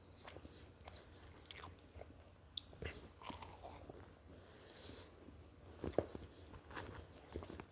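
A person chewing and biting into a pepperoni sandwich close to the microphone: faint, irregular mouth sounds with small wet clicks, a couple of them sharper.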